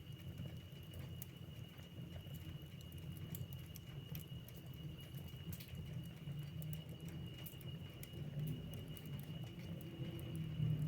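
Wood fire in a fireplace crackling: scattered sharp pops and ticks over a steady low rumble of the flames.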